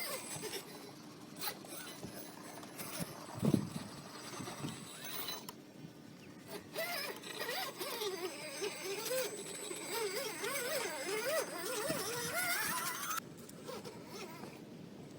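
RC scale crawler truck's electric motor and gear drivetrain whining, the pitch rising and falling quickly as the throttle is worked. There is a knock a few seconds in, and the drive noise cuts off suddenly near the end.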